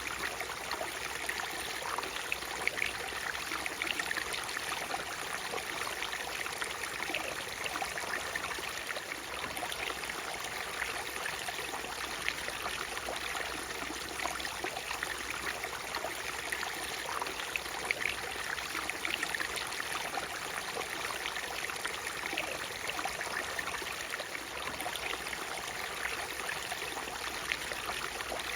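Waterfall: water splashing and rushing steadily, with small splashes and trickles through it.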